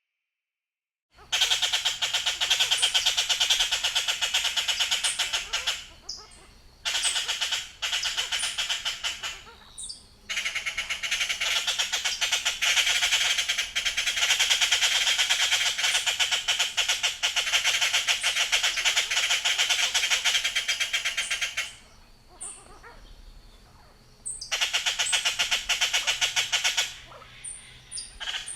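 A bird's dense, rapid buzzing trill, delivered in long bursts of several seconds with short pauses between them, the longest about eleven seconds; a few short, higher notes sound in the gaps near the end.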